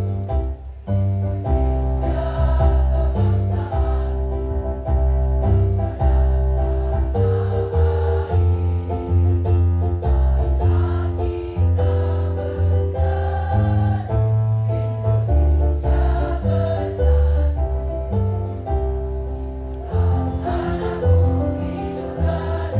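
Women's choir singing over instrumental accompaniment with a strong bass line.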